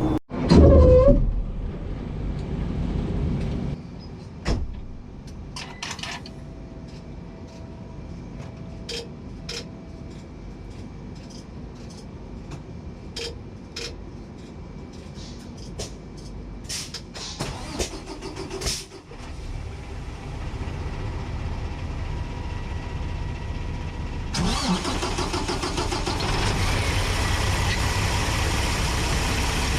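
Paccar MX-13 inline-six diesel engine running in a Peterbilt 389's engine bay while the truck is driven, heard close up from under the hood. A loud knock comes right at the start, sharp clicks and rattles come and go through the middle, and the noise grows louder and fuller about three-quarters of the way through.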